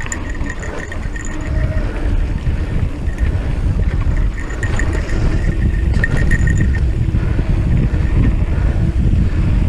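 Wind buffeting the microphone and a steady rumble from an e-mountain bike's tyres on a dirt trail during a ride, with short high-pitched squeaks now and then.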